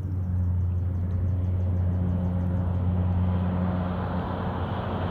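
Firefighting water bomber aircraft's engines with a steady low hum, slowly growing louder as the plane touches down on the lake to scoop water.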